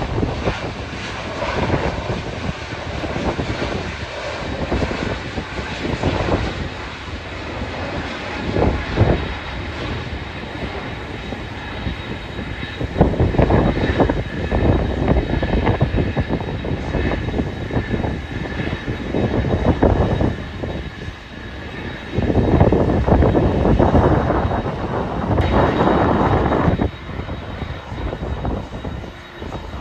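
Airliner engines running with a steady whine over a continuous rumble, while strong wind buffets the microphone in irregular gusts.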